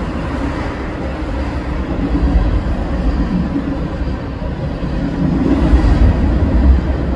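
Freight train of tank cars rolling past: a steady rumble of steel wheels on the rails.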